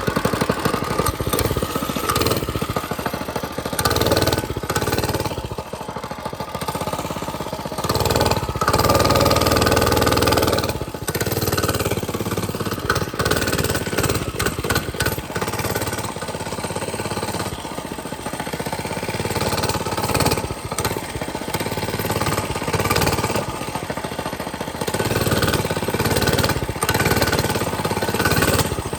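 Mini bike's small engine running while being ridden, its level rising and falling as the throttle is opened and eased off.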